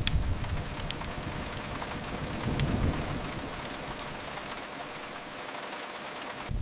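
Steady rain hissing against a window, with a few sharp pops from a crackling fireplace and a low rumble that fades away in the second half.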